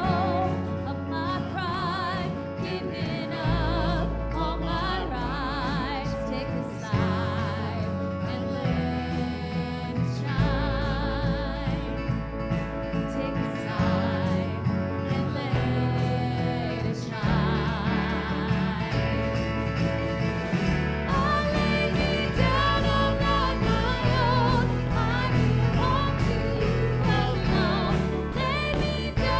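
Worship song: voices singing with vibrato over instrumental accompaniment with a bass line moving in steps. The music grows fuller about two-thirds of the way through.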